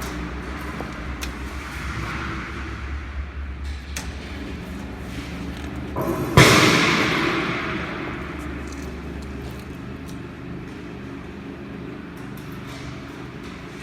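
Electric motor of a meat mixer machine running with a steady low hum. About halfway through, one loud metallic bang rings out and dies away over a couple of seconds, and the low hum drops away about two-thirds of the way through.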